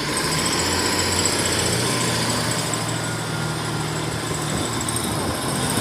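Diesel multiple-unit train's engine running steadily as it pulls out of the station, a low hum with a thin high whine above it.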